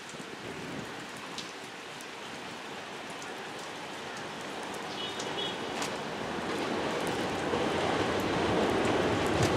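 Heavy rain falling steadily on a station platform. Under it, the sound of an approaching JR 209-series electric train builds and grows steadily louder through the second half.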